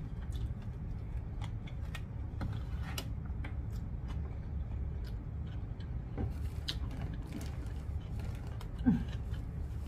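Close-up eating sounds: chewing on salad, with small clicks of a plastic spoon and plastic tub, over a steady low background hum. One short falling vocal sound near the end.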